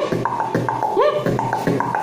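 Beatboxing: six beatbox sounds performed together as one repeating pattern, about once a second. The pattern has rising pitched swoops, a held tone and sharp clicks.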